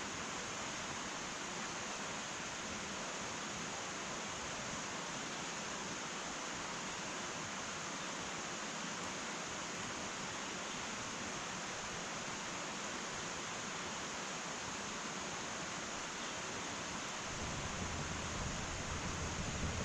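Wood fire burning in an irori sunken hearth, a steady even hiss. A low rumble joins near the end.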